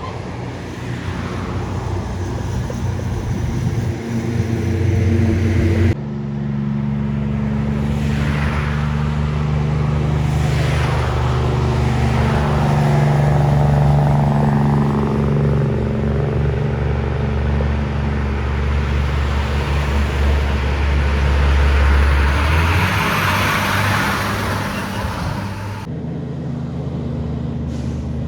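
Heavy trucks passing on a highway: a steady, loud diesel engine note with tyre and road noise that swells and falls away as a truck goes by. The sound changes abruptly twice, about six seconds in and near the end, where separate clips are joined.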